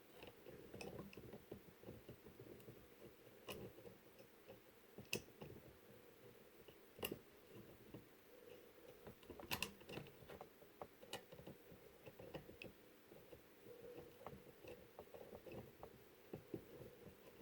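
Scattered light clicks and taps of small nuts and washers being handled and fitted onto motor mounting bolts, over faint steady room hum.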